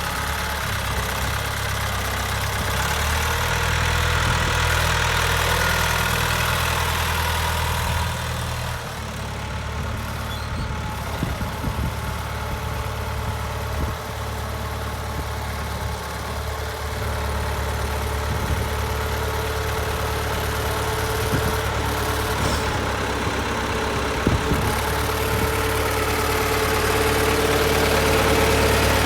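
1970 John Deere 2520 tractor's four-cylinder engine idling steadily. It dips slightly about nine seconds in and grows a little louder near the end.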